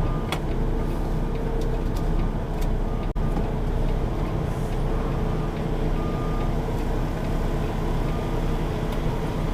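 Semi-truck's diesel engine running steadily at low speed while the rig is backed into a dock.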